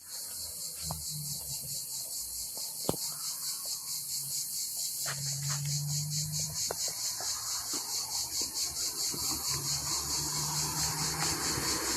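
Insects buzzing in a high, steady chorus that pulses about twice a second. A single sharp click sounds about three seconds in, and a faint low hum comes and goes underneath.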